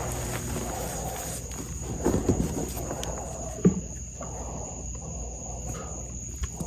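Oil-soaked gym chalk reforms being crushed and crumbled, with a cluster of crunches about two seconds in and a sharper crunch near three and a half seconds, over a steady thin high-pitched tone.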